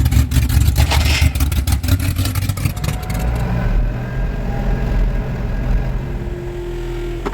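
A small engine running, with rapid firing pulses for about the first three seconds, then steadier running.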